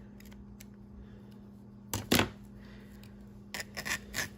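Gauzy linen fabric being ripped by hand into strips: one loud, short tear about two seconds in, then a few shorter rips near the end.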